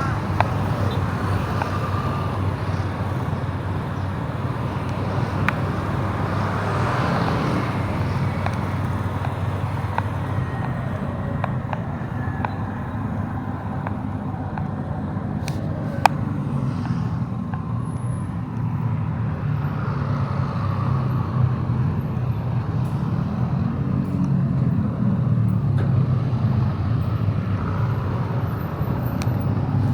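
Motorbike running on the road, its engine note rising and falling with speed, amid traffic noise.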